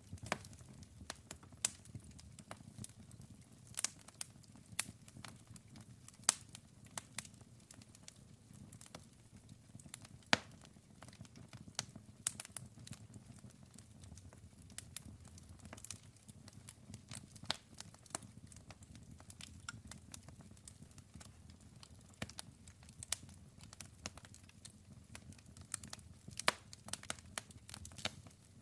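Wood campfire burning, with irregular sharp crackles and pops, some louder snaps, over a low steady rumble of the flames.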